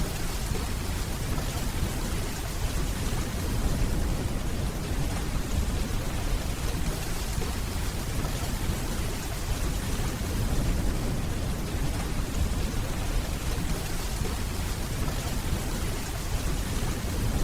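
Steady rainfall with a deep, continuous low rumble of distant thunder beneath it.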